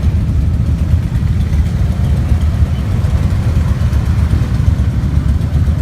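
Massed motorcycle engines running together, a steady low rumble.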